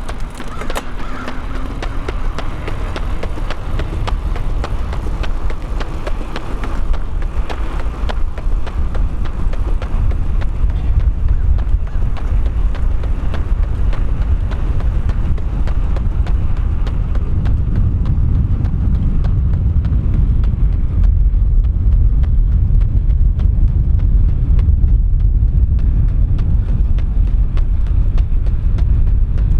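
Wind buffeting a runner's microphone, a loud low rumble that grows louder through the span, with the faint regular patter of running footfalls.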